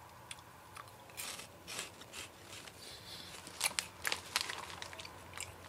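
Quiet crunching and crackling of crunchy corn-ball snacks being chewed, an irregular run of crisp clicks that grows sharper and more frequent about three and a half seconds in.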